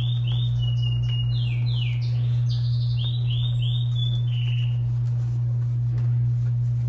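A small bird chirping in quick runs of short, falling notes, which stop about four seconds in, over a steady low hum.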